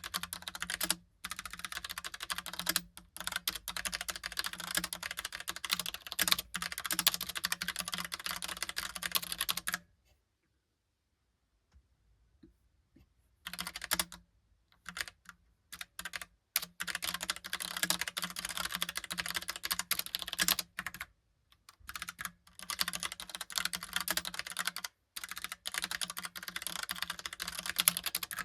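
Typing on a Logitech Pop Keys mechanical keyboard: quick, continuous keystrokes that stop for about three seconds around ten seconds in, pick up again as a few scattered key presses, then return to steady typing.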